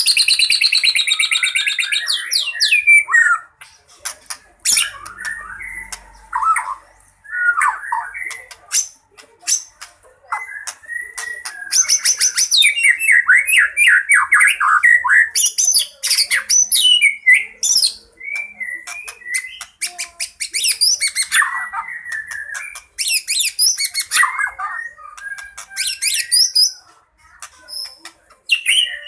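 White-rumped shama (murai batu) in fighting mode, singing a loud, varied song packed with mimicked phrases: fast trills and whistled phrases, with short pauses between bursts.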